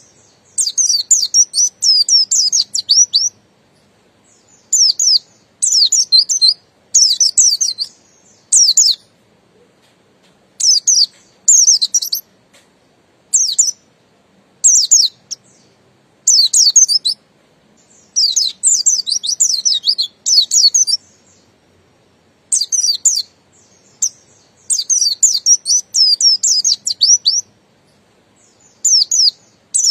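Buxtoni white-eye (pleci) singing: repeated bursts of high, rapid twittering, each lasting up to a couple of seconds, with short pauses between.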